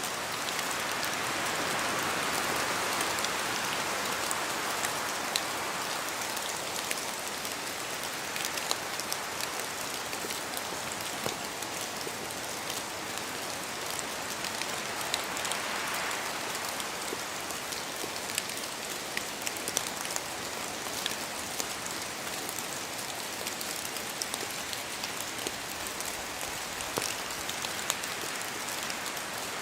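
Steady rain falling through forest trees, a continuous hiss dotted with sharp drops, with swells of wind in the foliage near the start and again about halfway through.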